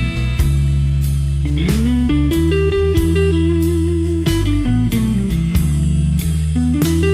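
Slow blues instrumental: an electric guitar plays a melody with sliding, bending notes over a steady bass line and drums.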